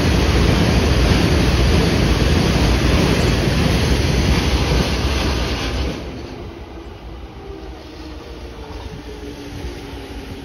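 A freight train of Taki 1000 oil tank wagons rolls past close by, a loud, steady rumble of wheels on rail. About six seconds in it drops suddenly to a much quieter, more distant rumble as the train pulls away.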